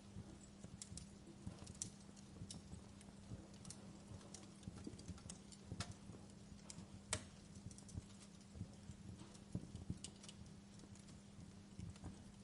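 Wood fire crackling in a fireplace: faint, irregular pops and snaps, one sharper snap about seven seconds in, over a steady low hum.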